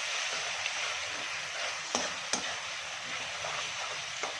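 Spice masala with ginger-garlic paste sizzling in a frying pan as it is stirred. A spoon clicks against the pan twice close together about two seconds in, and once more near the end.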